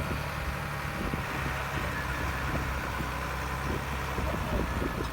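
Heavy diesel engine of earthmoving machinery running steadily, with a low, even drone.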